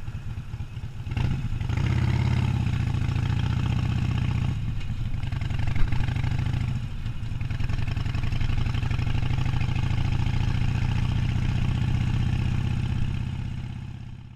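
Harley-Davidson Sportster 1200's air-cooled V-twin engine running with a low, steady, pulsing exhaust note. It grows louder about a second in, with a brief sharp click just before six seconds and a short dip around seven seconds, and fades out near the end.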